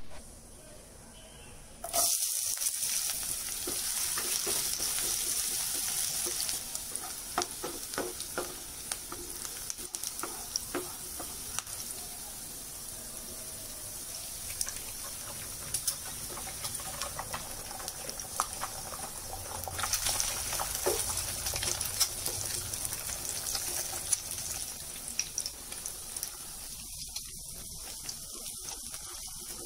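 Chopped onions and eggs sizzling in hot oil in a non-stick pan, with many scattered pops and crackles and a wooden spoon stirring. The sizzle starts sharply about two seconds in and is loudest near the start and again about two-thirds of the way through.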